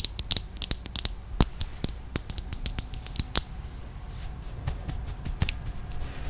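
ASMR handling of a large makeup powder brush: a rapid run of sharp clicks and scratchy crackles for about three and a half seconds, then softer scratching with a few scattered clicks.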